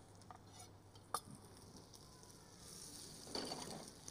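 Salmon frying in a pan, a faint sizzle with a sharp click about a second in. The sizzle swells briefly near the end as tongs work the fish in the pan.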